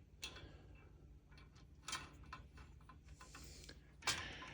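Faint, irregular clicks and light knocks of screws, washers and frame rods being handled and fitted together by hand, with a brief soft scraping hiss a little past the middle.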